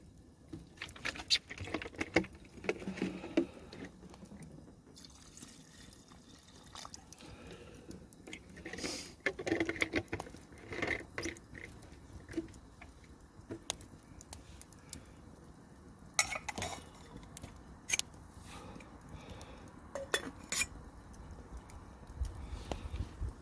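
Cookware and utensils clinking and clattering off and on, with some liquid sounds.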